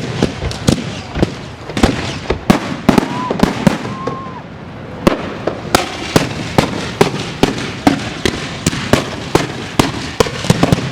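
Fireworks going off in a dense, irregular string of sharp bangs and cracks, several a second, without a break.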